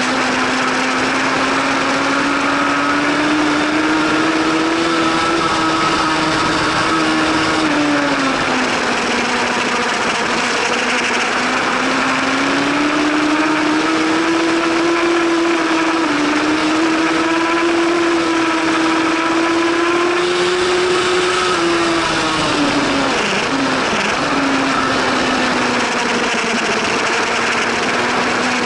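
Superbike engine at high revs under race load, its pitch rising and falling as the bike accelerates and slows for corners, with a sharper drop in revs about eight seconds in and again near twenty-three seconds. A steady rush of noise runs under it.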